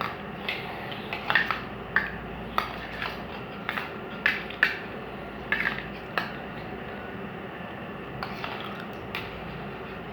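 Spoons clinking and scraping against plates while eating rice, a dozen or so irregular sharp clinks, most of them in the first six seconds and fewer near the end, over a steady low hum.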